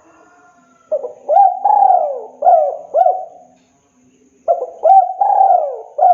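Spotted dove cooing: two phrases of about five rising-and-falling coos each, the first starting about a second in and the second about halfway through.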